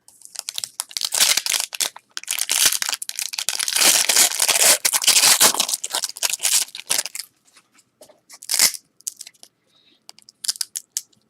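Foil trading-card pack wrapper being torn open and crinkled: a dense crackling tear for about seven seconds, then one sharp crinkle and a few small rustles.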